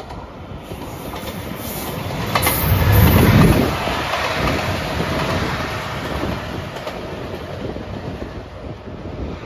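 JR Shikoku 2700 series diesel express train passing close by. The rumble of its diesel engines and wheels on the rails builds to a peak about three seconds in, then fades as it moves away.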